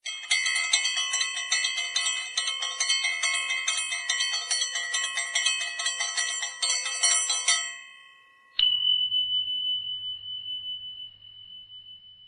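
A bell rung rapidly over and over for about eight seconds, with many ringing tones overlapping. Then, after a short gap, a single bright ding whose clear tone rings on and fades slowly.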